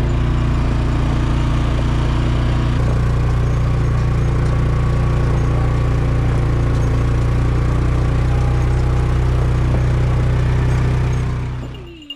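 Engine running steadily at an even speed, then fading out about a second before the end.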